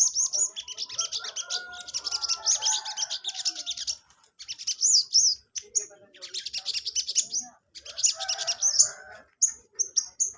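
A sogon (sogok ontong) songbird singing hard in rapid, high-pitched chirping bursts of trills and twitters, with short breaks between phrases.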